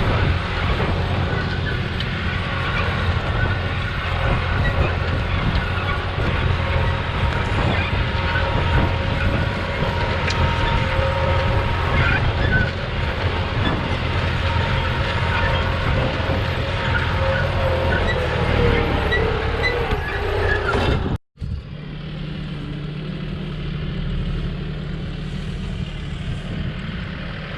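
Tractor's diesel engine running steadily, with a constant whine over the low rumble. About three-quarters of the way through the sound cuts out for an instant, then the engine carries on more evenly and a little quieter.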